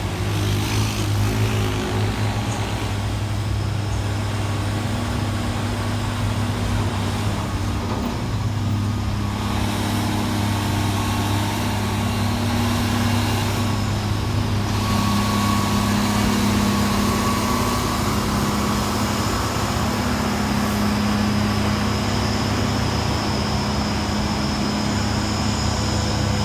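Heavy diesel truck engines labouring steadily up a steep climb, a continuous low drone of slow, heavy traffic.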